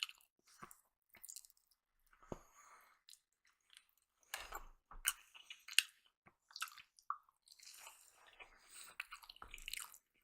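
Close-miked chewing of breakfast food: irregular wet smacks and mouth clicks as she chews and swallows.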